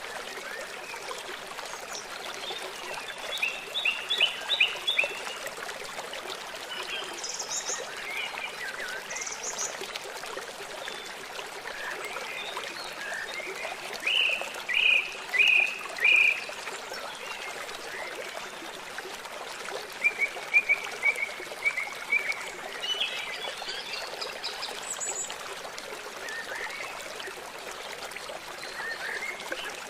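Several forest birds singing in short bursts of chirps and whistled notes, a few groups of notes louder than the rest, over the steady rush of a flowing stream.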